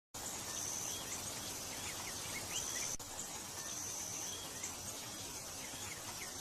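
Outdoor ambience, fairly faint: insects chirping in a high repeating pulse, with short bird chirps over a steady background hiss.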